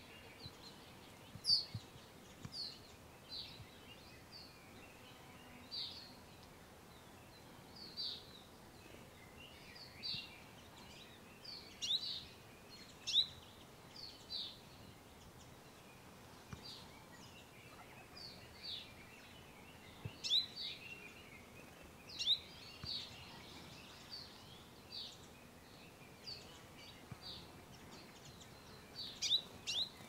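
Small forest birds giving short, high chirps, one every second or so, with a few louder notes and a quick cluster near the end, over a faint steady background hiss.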